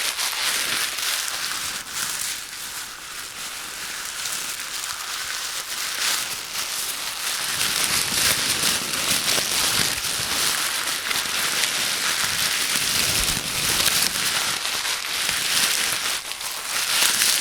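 Close-miked ASMR trigger sounds: a dense, steady patter of tiny crackles, mostly high-pitched, filling out with a fuller, lower texture in the second half.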